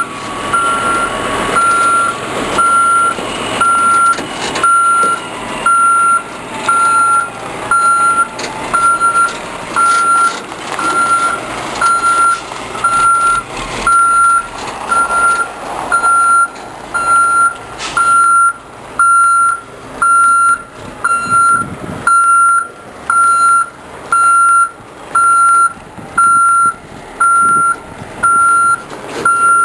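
Triaxle dump truck backing up: its reversing alarm beeps steadily about once a second over the running engine.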